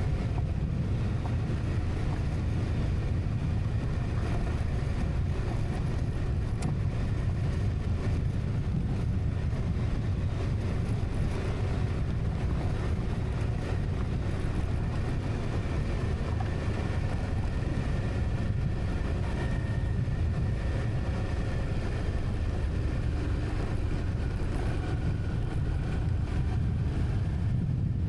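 A motor vehicle running steadily, a constant low rumble with a noisy hiss over it and no change in speed.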